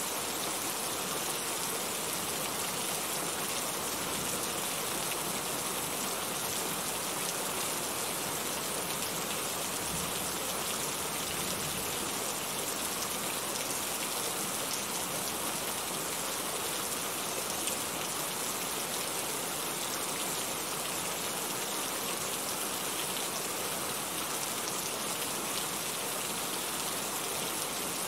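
Rain falling steadily, a constant even wash of sound with no let-up.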